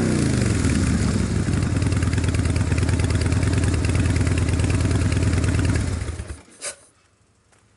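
Harley-Davidson 2006 FXDL Dyna Low Rider's V-twin running through newly fitted mufflers: a rev dropping back at the start, then a steady idle until the engine is switched off about six seconds in. A single sharp click follows.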